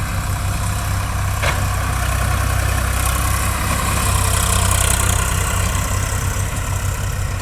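Diesel engine of earth-moving machinery running steadily with a deep hum, getting slightly louder through the middle, with a single short click about a second and a half in.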